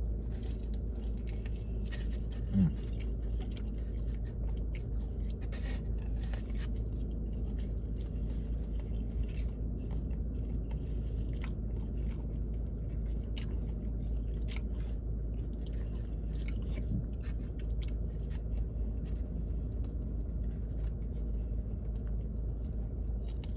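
A person chewing and biting food close to the microphone, with wet mouth sounds and small crunches, over a steady low hum; a short hum of the voice about two and a half seconds in.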